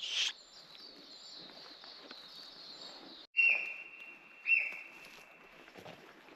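Birds chirping against a steady high chirring. After a sudden cut, two loud whistled notes come about a second apart, each held for most of a second.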